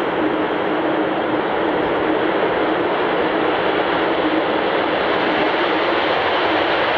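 Avro Vulcan XH558's four Olympus turbojets at takeoff power: a loud, steady jet roar with a faint steady tone under it.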